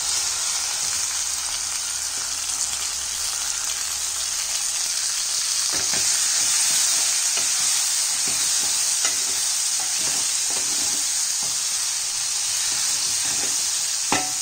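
Diced raw mango frying in hot oil with mustard seeds and ginger-garlic paste in a steel pan: a steady sizzle, with a few light clicks as it is stirred.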